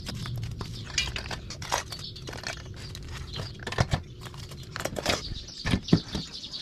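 Irregular clicks, knocks and rattles of an old bicycle frame being handled and worked on, with a few louder knocks about four seconds in and near the end.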